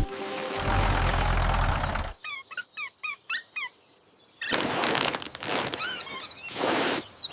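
Cartoon sound effects: a run of about six short squeaks, each falling in pitch, between stretches of rushing noise, with a quick warbling squeak near the end.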